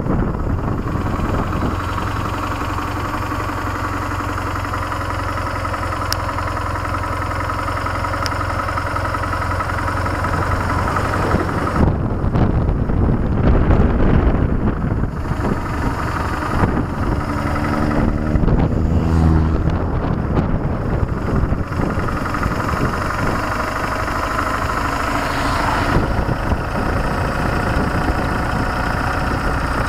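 BMW R1150GS Adventure's flat-twin boxer engine running on the move, heard from the rider's seat with rushing air over the microphone. The engine note holds steady for the first dozen seconds, a louder rush of noise comes in about twelve seconds in, and the pitch shifts up and down in the middle before settling steady again.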